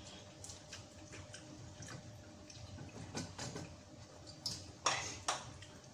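Spoon and fork clinking and scraping against a ceramic soup bowl during eating: a string of soft small clicks, with two sharper clinks near the end.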